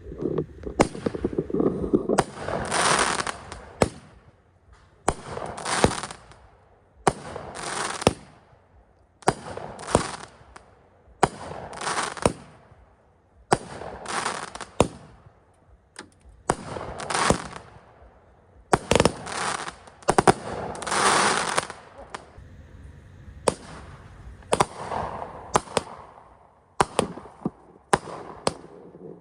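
Fireworks going off in quick succession: sharp bangs, each with a short noisy tail, a new burst every second or two.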